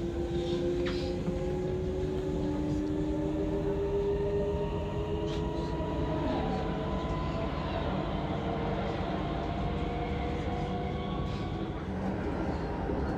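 Inside a running electric commuter train: steady rumble of wheels on rails with the whine of the traction motors, rising gently in pitch for the first several seconds and then holding steady.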